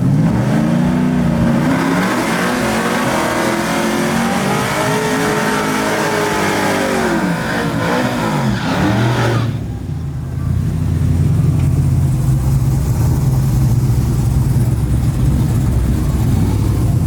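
Vehicle engine revving up and down, its pitch climbing and falling in arcs several times. About nine and a half seconds in it changes abruptly to a steady low engine drone.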